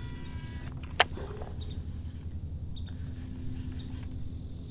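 Insects chirring in the background: a high, rapidly pulsing drone that keeps on steadily, over a low steady rumble. One sharp click about a second in.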